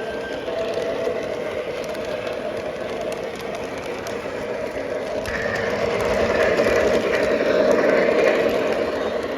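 O gauge model train running along the track, with a steady motor hum and the rumble of its wheels on the rails, growing louder about halfway through.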